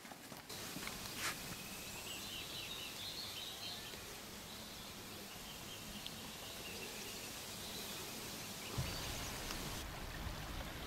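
Outdoor ambience with small birds chirping in a quick cluster a couple of seconds in; a low rumble joins near the end.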